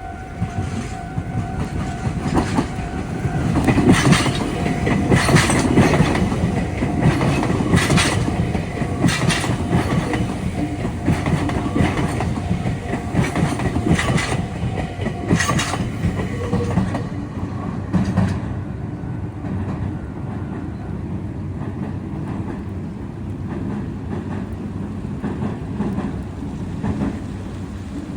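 Meitetsu electric train running over the Biwajima junction's points and crossings, its wheels clacking in a run of sharp knocks about a second apart over a rumble, loudest in the first half and easing after about eighteen seconds. A steady ringing tone sounds underneath and stops about sixteen seconds in.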